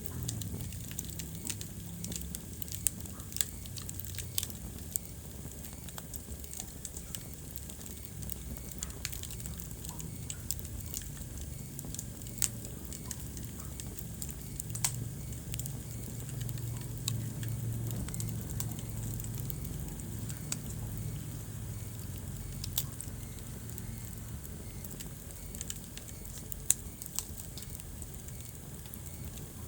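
Wood fire in a fireplace crackling: irregular small snaps and a few sharper, louder pops, over a low steady rumble.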